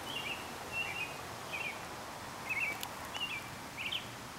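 A songbird singing short chirping phrases, one roughly every second, faint against the outdoor background.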